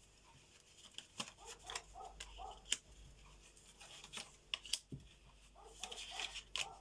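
Tarot cards being handled and laid out: scattered light clicks and taps of card on card and table, about ten over a few seconds.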